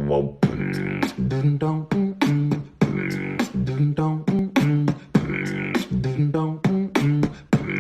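Rhythmic vocal music: a pitched melody stepping from note to note over a steady beat of sharp percussive clicks, in the manner of beatboxing.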